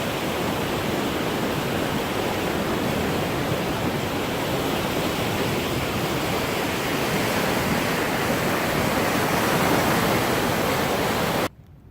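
Floodwater rushing: a steady, loud wash of water noise that cuts off suddenly near the end.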